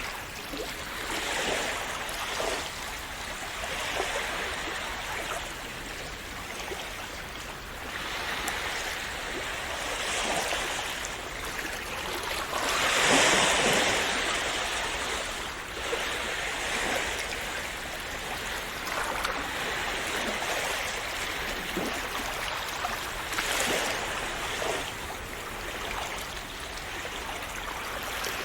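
Calm sea waves washing and splashing on the shore, swelling and receding every few seconds, with one larger wave breaking about halfway through.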